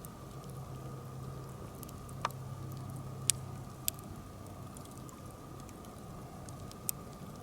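Wood campfire crackling: a light patter of small ticks with a few sharper pops, the loudest about three seconds in.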